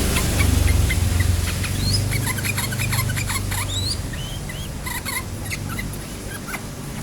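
Yellow-vented bulbul (trucukan) singing in a rapid chatter of short chirps and quick upswept whistles. A low rumble underneath fades after about three seconds.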